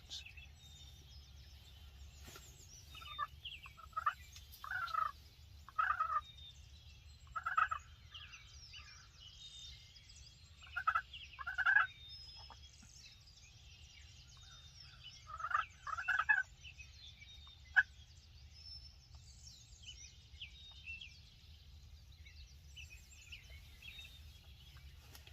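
Wild turkey gobblers gobbling, several rapid rattling gobbles in clusters through the first two-thirds, with a single sharp short sound near 18 s.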